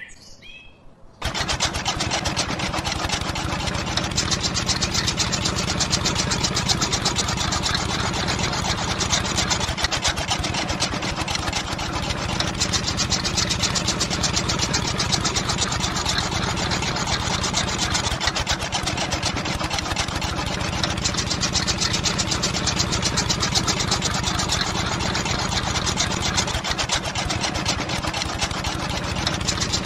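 Small electric motor, such as the DC motor of a DIY model machine, starting about a second in and running steadily with a fast, even buzz.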